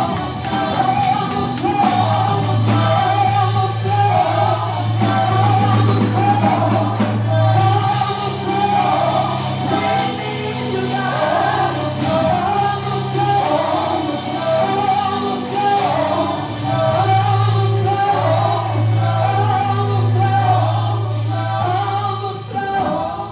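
Gospel worship music: singers and a choir over a band, with long held bass notes and a steady beat on the cymbals.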